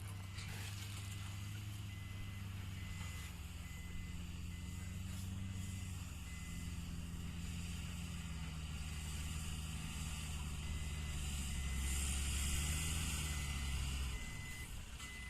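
Heavy vehicle engine running with a low hum while a reversing alarm beeps steadily. The engine note drops about a third of the way in, and its low rumble falls away near the end.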